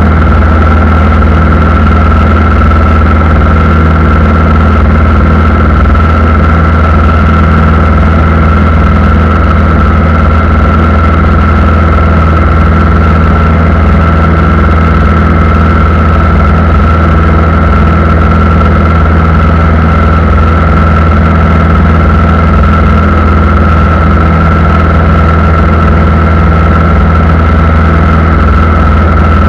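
Aircraft engines running steadily at low power, a constant low drone with a steady high whine over it.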